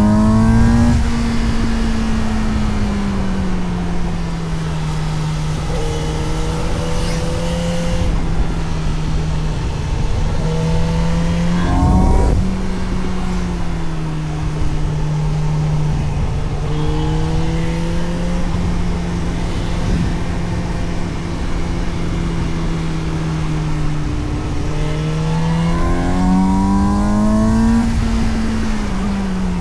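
Suzuki GSX-S750's inline-four engine heard onboard while riding, over steady wind and road rush. Revs rise and fall near the start, run fairly steady, climb briefly with a short thump about twelve seconds in, and rise again before dropping near the end.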